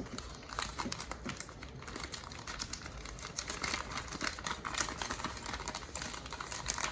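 A blind-box bag crinkling and crackling as hands work at tearing it open, with many quick irregular crackles throughout.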